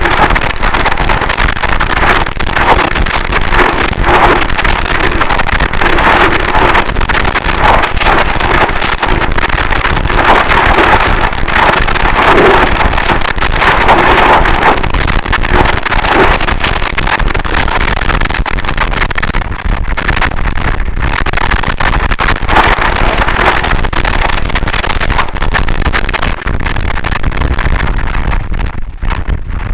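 Harsh noise wall: a loud, dense wall of distorted static, its middle range swelling about every two seconds. From about two-thirds of the way through, the top end drops out in brief gaps, and the noise thins near the end.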